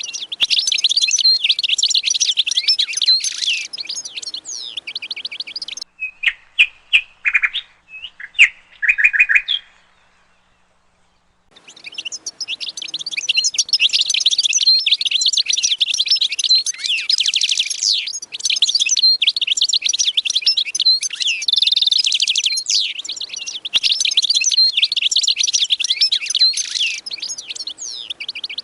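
Many small birds chirping and twittering together in a dense, high-pitched chatter. About six seconds in it thins to a few separate louder calls and stops for a moment near ten seconds, then the full chatter resumes.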